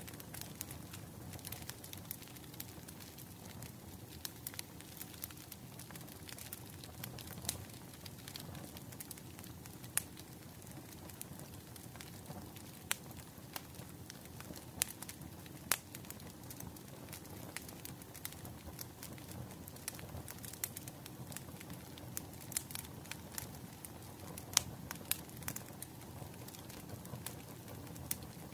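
Bonfire crackling: irregular sharp pops and snaps over a steady low rumble of burning wood.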